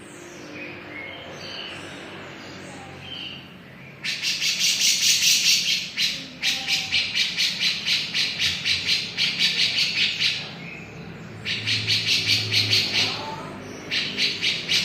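Grey-cheeked bulbul (cucak jenggot) calling: a few soft whistled notes, then loud harsh chattering in rapid pulses, about four a second, in runs broken by short pauses.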